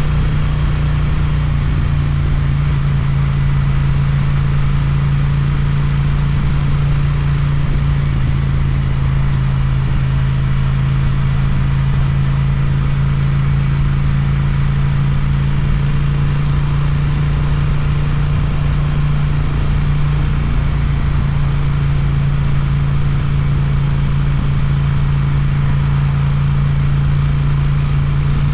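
Suzuki motorcycle engine through an Akrapovič exhaust, running at a steady note with the pitch hardly changing, as when cruising at constant speed.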